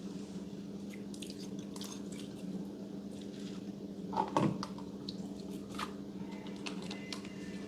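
Slime being squeezed and worked by hand, with scattered sticky clicks and small pops and one louder squelch about four seconds in.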